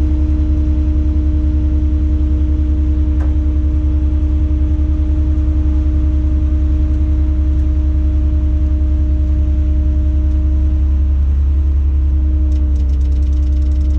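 Tadano 180G-5 all-terrain crane's engine running steadily, heard from inside the operator's cab, with a constant low drone and a steady hum over it. There is one light click about three seconds in.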